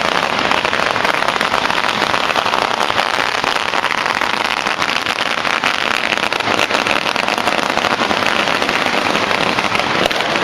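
A long string of firecrackers going off in a dense, unbroken crackle of rapid pops.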